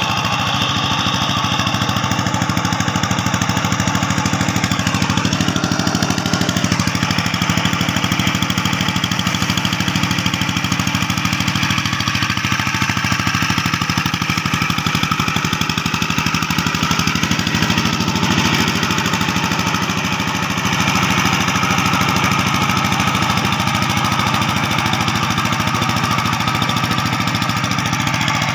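Rice-field tractor's engine running steadily with an even, rapid chugging while tilling a paddy field.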